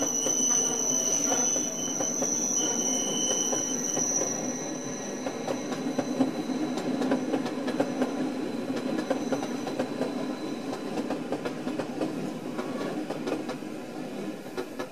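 Rhaetian Railway train rolling slowly past. Its wheels squeal on the curve for the first few seconds with high, steady tones. After that the coaches rumble on with repeated clicks from the wheels over the track.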